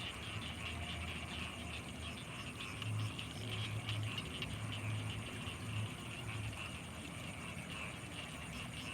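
Night chorus of insects and frogs: dense, rapid chirping pulses over a steady high-pitched insect whine. A low hum underneath swells from about three seconds in and eases off after about six and a half seconds.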